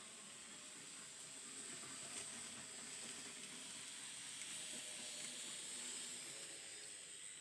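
Faint hissing whir of an N gauge model train running along the track. It grows louder toward the middle and later part and fades near the end, as the train passes close and moves away.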